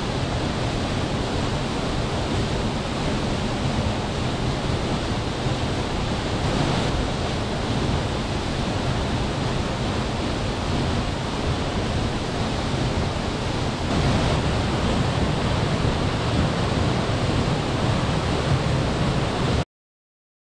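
Waterfall rushing: a loud, steady wash of falling water, a little louder from about two-thirds of the way in, cutting off abruptly just before the end.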